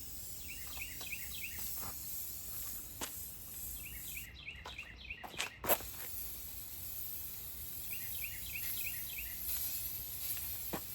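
Aerosol spray can of primer hissing as coats are laid on, cutting out briefly about four seconds in and starting again with a click. Short runs of high chirps repeat in the background.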